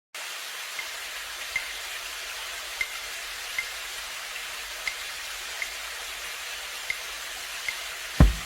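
Steady rain-like hiss that starts suddenly, with a faint high chirp about once a second. Deep beats like a kick drum come in near the end.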